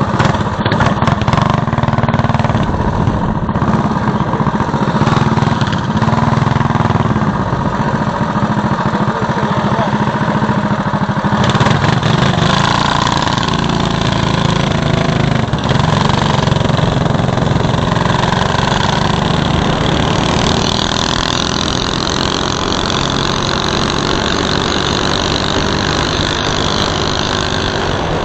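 DB30 mini bike's small engine running steadily. About eleven seconds in a broad hiss joins it and stays.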